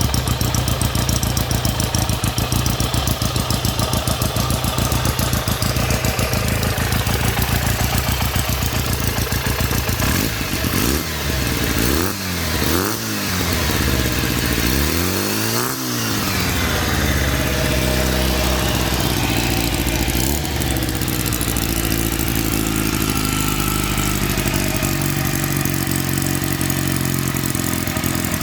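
Honda CB92 Benly's 125 cc parallel-twin four-stroke engine idling through its exhaust. Around the middle it is revved in several quick throttle blips, each rising and falling, then it settles back to idle with one more short blip a little later.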